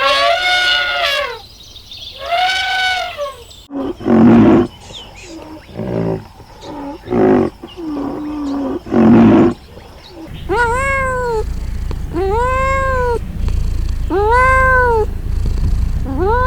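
A series of animal calls in three edited parts: first a few arching, pitched calls; then, after a sudden cut, a run of low, rough calls; then four evenly spaced arching calls about two seconds apart over a low background rumble.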